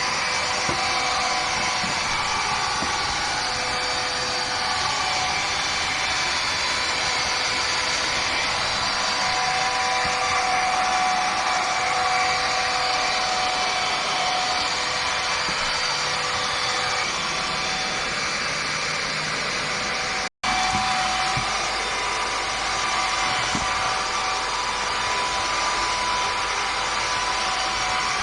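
Kitfort vacuum cleaner running steadily: a constant motor hiss with a whining hum in it, cutting out for an instant about twenty seconds in.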